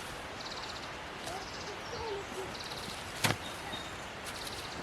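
Outdoor ambience with short, high, rapidly pulsing chirps repeating every second or so and a few brief lower chirps, with a single sharp knock about three seconds in.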